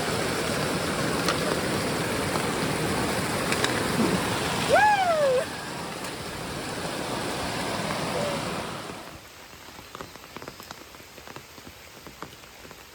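Steady rushing of water and rain, with a short rising-then-falling whine about five seconds in. About nine seconds in it gives way to quieter, scattered raindrops tapping on a surface.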